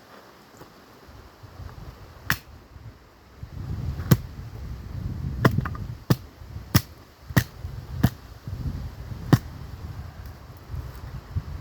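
Axe striking firewood, about eight separate sharp chops at irregular intervals of half a second to two seconds.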